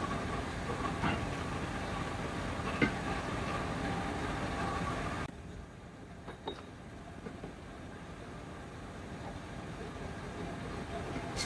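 Steady mechanical workshop noise with a few sharp clicks, as of metal parts or tools knocking; it drops abruptly to a quieter background about five seconds in.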